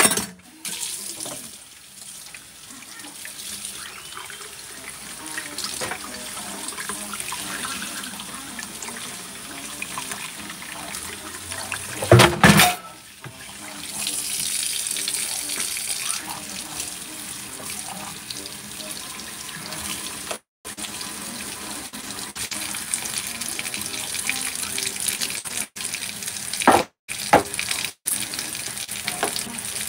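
Home fries and scrambled eggs frying in two pans on a gas stove, a steady sizzle. One loud knock or clatter comes about twelve seconds in, and the sound cuts out completely for a moment a couple of times in the second half.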